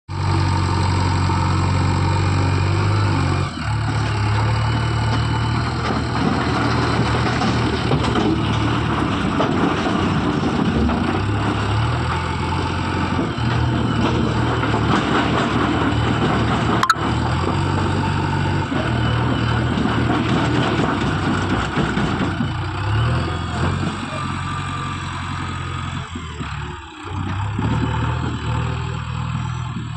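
JCB 3DX backhoe loader's diesel engine running under changing load, its low drone stepping up and down several times. There is one sharp knock about 17 seconds in.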